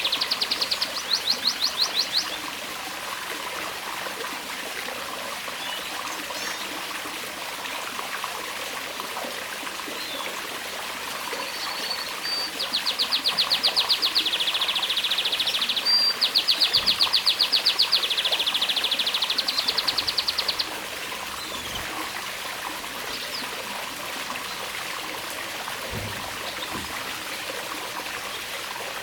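Domestic canary singing in fast trills of rapidly repeated high notes: a short trill at the start, then a long run of trills from about twelve seconds in to about twenty-one seconds. A steady trickle of running water goes on underneath.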